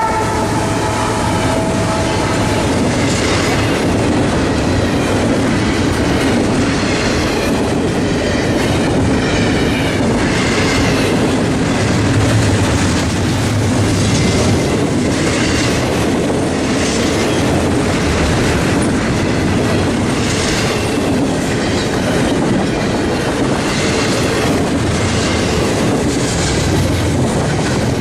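A freight train rolling past at close range, its wheels clicking over the rail joints in an even clickety-clack about once a second. A steady tone dies away in the first three seconds.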